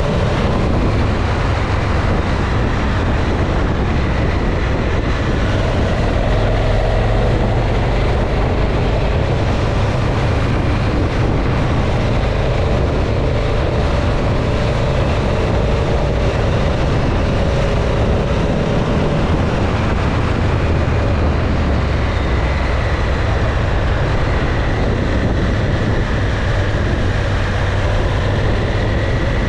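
Motorcycle riding along the road: a steady rush of wind and road noise, strongest in the low rumble, with a faint engine note drifting slowly up and down in pitch.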